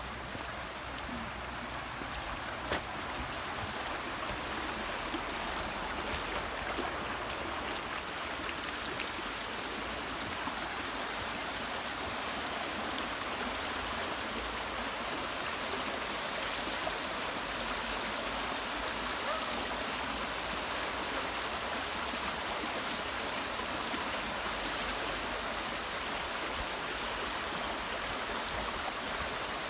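Steady rush of running water with a few small splashes, like a stream flowing.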